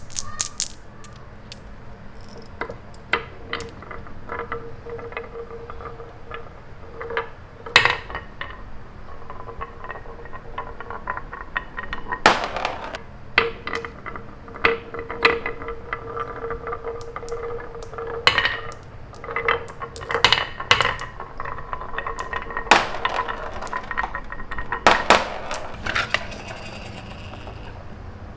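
Small hard toys clicking and clinking against each other and a surface, in irregular knocks with a few louder ones, over a faint steady whine that comes and goes.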